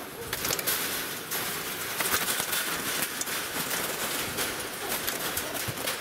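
Birds calling against a steady outdoor hiss, with scattered light clicks.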